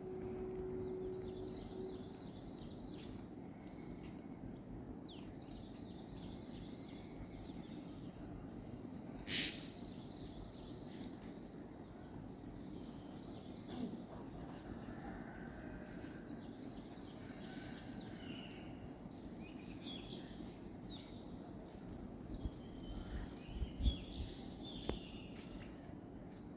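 Birds chirping: repeated quick runs of high chirps, with more varied calls from several birds near the end, over a steady low background noise. A short, loud, sharp noise cuts in about nine seconds in.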